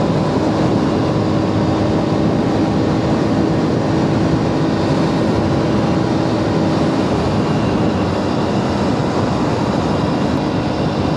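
Aprilia RS 457's parallel-twin engine running at a steady pitch while riding, under a loud, even rush of wind noise.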